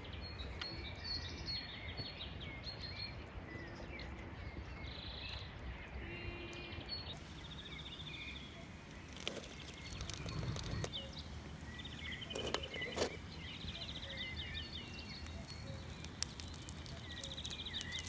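Small birds chirping and trilling over steady low outdoor background noise, with a few faint knocks.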